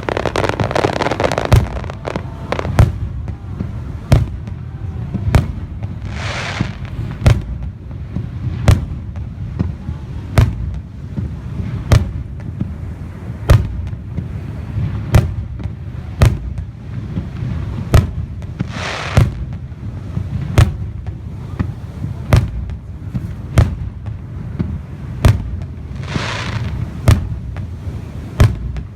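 A fireworks display: shells bursting in a steady series of sharp bangs, about one every second or so, each with a low boom. A hissing crackle at the start and three longer hissing crackles in between.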